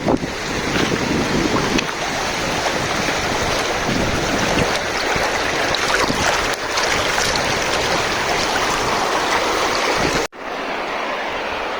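Loud, gusty rushing noise of wind buffeting the microphone outdoors, with a brief dropout about ten seconds in before it carries on more steadily.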